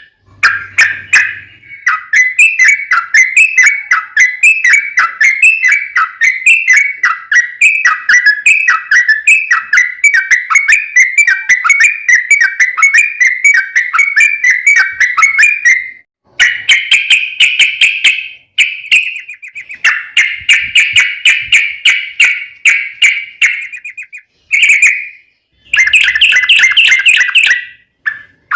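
Yellow-vented bulbul (trucukan) song: a long run of rapid, bubbly chattering notes for about the first half, then several shorter bursts of song with brief pauses between them.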